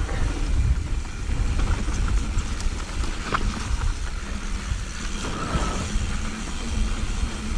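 Wind buffeting the microphone over the rolling and rattling of a mountain bike on a dirt trail, with a sharp knock about three seconds in.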